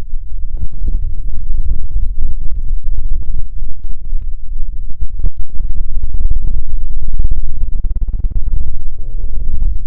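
Close-miked ASMR rubbing and scratching on the microphone: a loud, deep, crackling rustle with a brief break about five seconds in.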